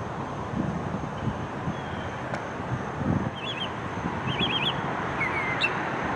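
A songbird chirping in short runs: three quick notes, then four, then a couple of short falling notes near the end. Beneath them is a steady hum of distant traffic.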